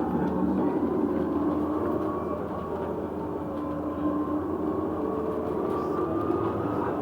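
Inside a moving double-decker bus: steady running and road noise with faint whining tones that slowly drift in pitch.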